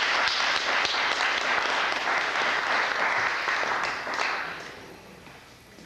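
Audience applauding after a poetry reading, the clapping dying away about four and a half seconds in.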